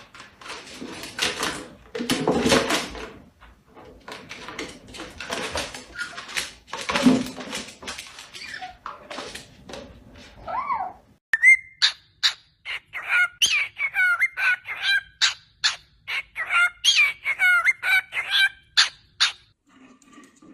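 Pet parrot calling: a string of harsh, noisy squawks for the first nine seconds or so, then a fast run of short chirps and whistles that bend up and down in pitch for about eight seconds.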